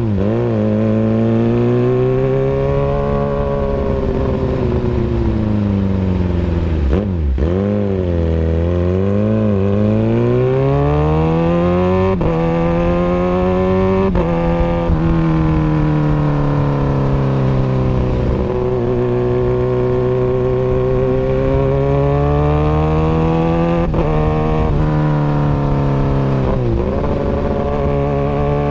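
Kawasaki Ninja ZX-6R 636 inline-four engine running through an Austin Racing exhaust, its revs rising and falling slowly with several sudden brief breaks in the note.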